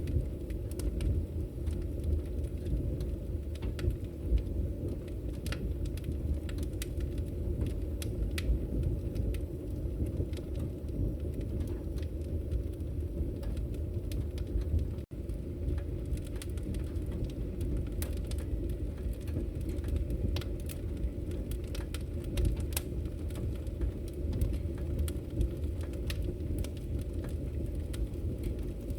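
Wood fire burning: a steady low rumble of flames with scattered sharp crackles and pops from the firewood. The sound drops out for a moment about halfway through.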